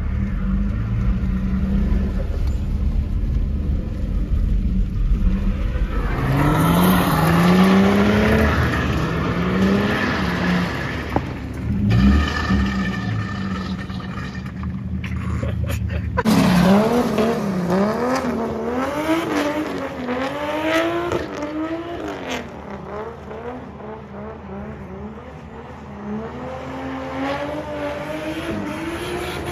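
Drift car's engine revving hard, its pitch climbing and dropping over and over as it slides through donuts. For the first few seconds a steadier low engine hum is close by.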